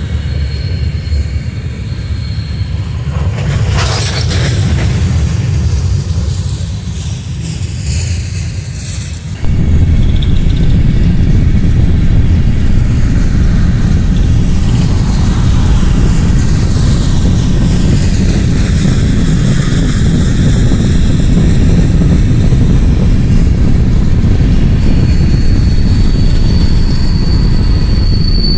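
Railcars rolling past on the rails: first the last cars of an Amtrak Superliner passenger train, then a louder, steady rumble of a BNSF work train's empty open-top freight cars going by. A high, steady wheel squeal sets in near the end.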